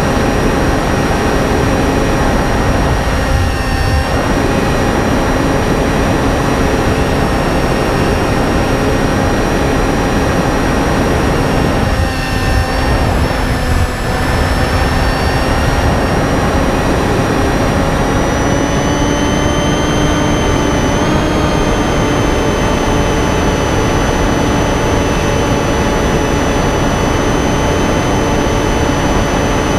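Finwing Penguin RC plane's electric motor and propeller whining steadily in flight, with heavy wind noise; the pitch rises slightly about two-thirds of the way through.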